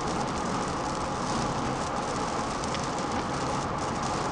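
Steady road and wind noise heard inside a car's cabin while cruising at highway speed.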